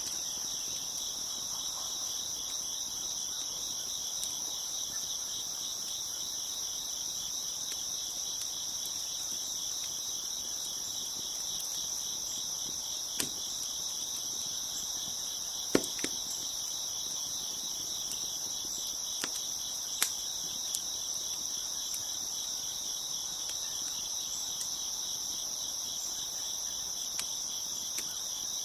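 Crickets chirping in a steady, dense, high trill, with a wood fire crackling underneath: a handful of sharp, isolated pops, scattered through the middle.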